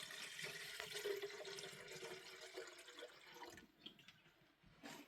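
Faint running water trickling and dripping, fading out about three and a half seconds in.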